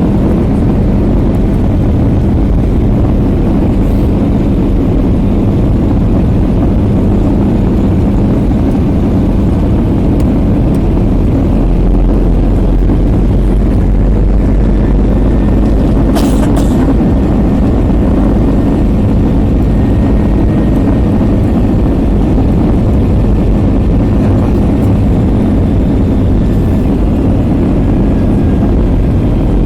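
Steady, loud cabin noise inside an Airbus A320 airliner: the even rumble of engines and airflow. A sharp click comes about sixteen seconds in.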